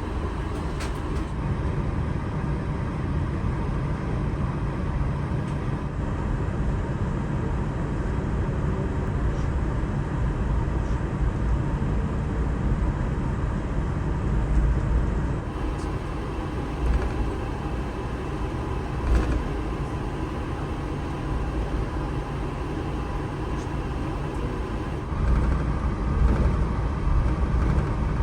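Airbus A380 cabin noise heard from inside as the airliner moves on the ground before takeoff: a steady low rumble, with a few louder low bumps about halfway through and near the end.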